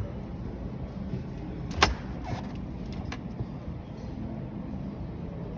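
Steady low background hum of a shop floor, with one sharp click a little under two seconds in and a few lighter clicks in the next couple of seconds.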